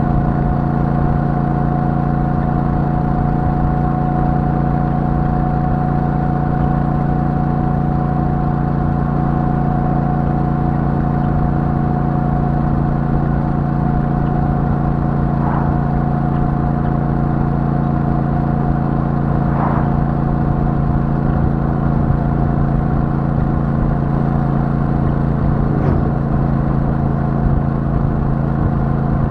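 Royal Enfield Super Meteor 650's 648 cc parallel-twin engine through its stock exhaust, running steadily at a constant cruise, its pitch holding even throughout.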